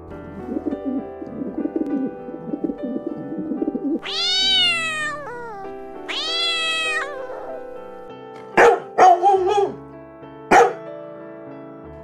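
Pigeon cooing, then a domestic cat giving two long meows that rise and fall, then a dog barking several short times, over background music.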